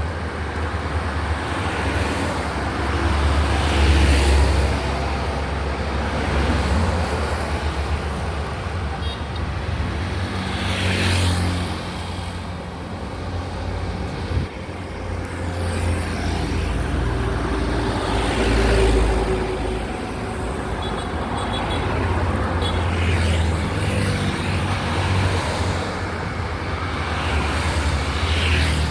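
Road traffic going by close at hand: a steady low rumble of engines, with about five vehicles swelling up and swishing past one after another. A single sharp click about halfway through.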